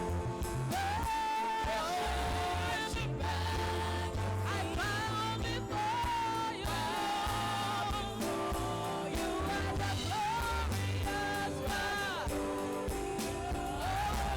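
Worship song: a vocalist sings long held notes with slides between them, over sustained chords and a deep bass line.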